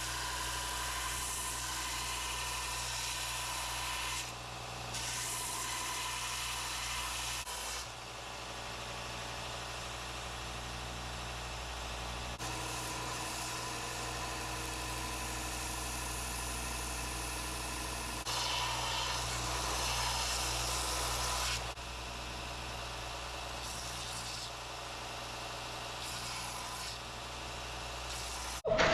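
Belt sander running steadily while the wooden knife handle is shaped against the belt. A grinding hiss swells and fades as the handle is pressed on and eased off.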